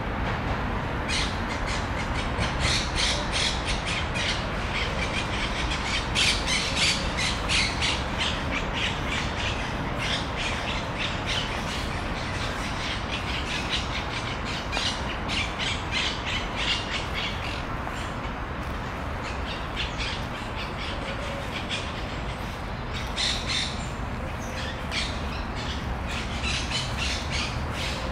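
Birds squawking in rapid, harsh runs of short calls, easing off for a few seconds a little past the middle, over a steady low background rumble.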